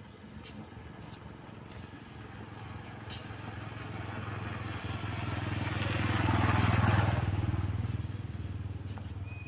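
A motor vehicle driving past: its engine hum grows louder to a peak about seven seconds in, then fades.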